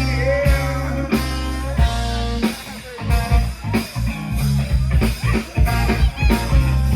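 Live band playing an instrumental passage between vocal lines: guitar over bass and drums. The band thins out briefly about two and a half seconds in, then the drums come back in.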